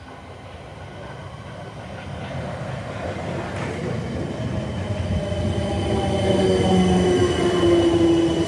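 South Western Railway electric multiple unit approaching along the platform and running past close by, growing steadily louder. In the second half a whine comes in that dips slightly in pitch near the end.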